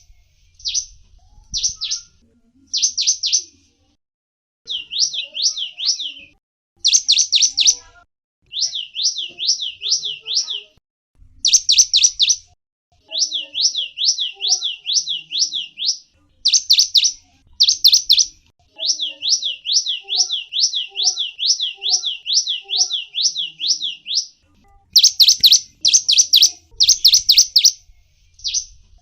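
Small songbird (gelatik wingko) singing in repeated bursts of high, rapid chirps, some run together into fast trills of sliding notes, with short pauses between phrases.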